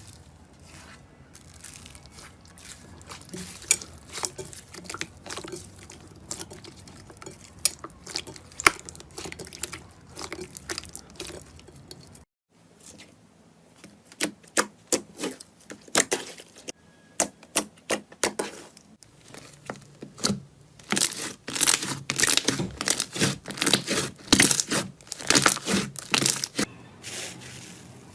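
Hands pressing and squishing slime, giving a run of sticky clicks, pops and crackles. The sound drops out briefly about halfway through, then a new stretch of sharper, denser crackling follows.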